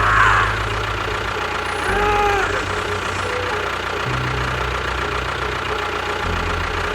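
A small vehicle engine running at idle, its low hum stepping to a new pitch every one to two seconds. A short rising-and-falling tone sounds about two seconds in.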